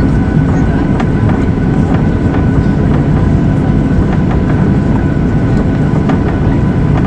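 Airliner heard from inside the cabin: a steady, loud rumble of the jet engines and the rolling aircraft, with a thin steady whine above it and faint light knocks.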